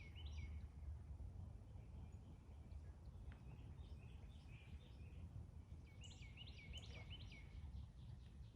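Pair of lovebirds chirping: three quick runs of short, high chirps, one at the start, one around the middle and one near the end, over a faint low hum.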